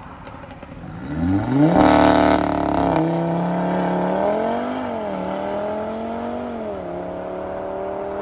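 A sports car's engine revs up hard as it pulls away, loudest about two seconds in. It then runs on at a fairly steady pitch, rising and falling gently a couple of times.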